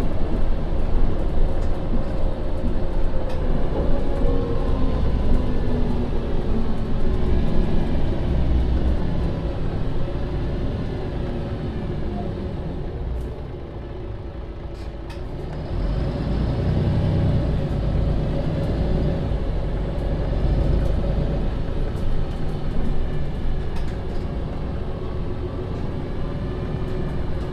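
MAN Lion's City city bus engine and automatic gearbox running under way: the engine note falls away as the bus slows, drops lowest about halfway through, then climbs again as the bus pulls away.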